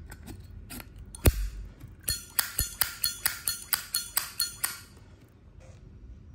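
Zippo lighter's hinged metal lid clicking open and shut: one sharp click about a second in, then a quick run of about a dozen ringing metallic clicks, roughly five a second, stopping about five seconds in.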